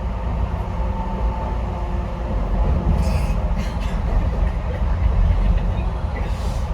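Docklands Light Railway electric train running, heard from inside the front car: a steady low rumble of wheels on the rails, with a faint steady whine that fades about a second in and a few brief hissing sounds.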